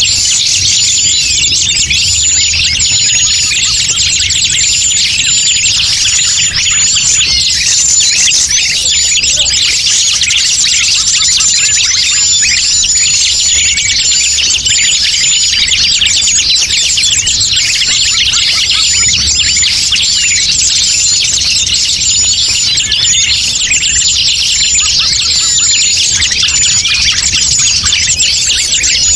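Dense chorus of many small forest birds chirping and twittering without a break, with a short high note repeating over it: a bird-lure (pikat) recording meant to draw wild birds in.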